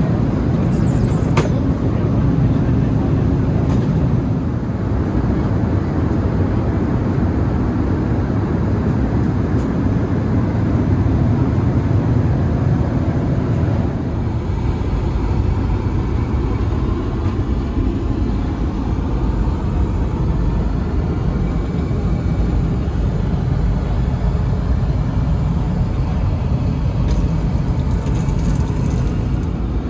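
Steady cabin noise of an Airbus A380 airliner, the even rumble of engines and airflow heard from inside the passenger cabin.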